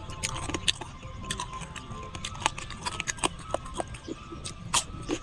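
Close-miked chewing and mouth sounds of someone eating grilled pork rib meat: an irregular run of sharp wet clicks and smacks, several a second, over faint background music.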